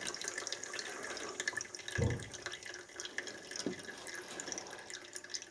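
Water hissing and dripping from a hose coupling held at about 100 psi of mains water pressure during a pressure test, a slight leak where the hose is fastened onto the fitting. A soft knock about two seconds in.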